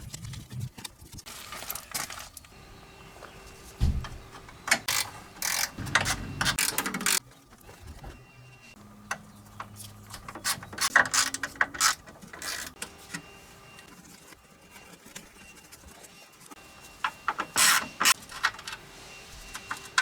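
Workshop disassembly noises: hand tools and metal parts clicking, knocking and rasping in irregular bursts as parts come off a car's underbody.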